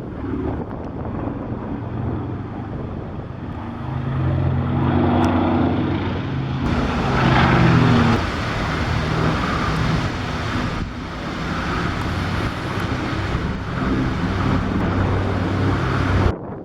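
North American B-25 Mitchell's twin Wright R-2600 radial piston engines running as the bomber flies past. The engine note swells to its loudest about halfway, shifts in pitch as it passes, and cuts off suddenly near the end.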